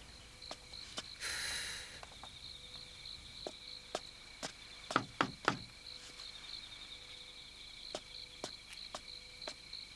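Crickets chirping steadily in a quiet ambience, with scattered soft clicks and three sharper knocks about five seconds in, and a short hiss near the start.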